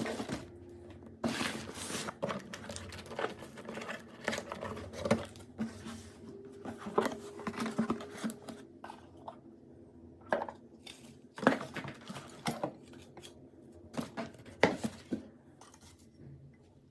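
Hard household objects being handled and set down: irregular knocks, clicks and clinks, a few louder than the rest, thinning out near the end.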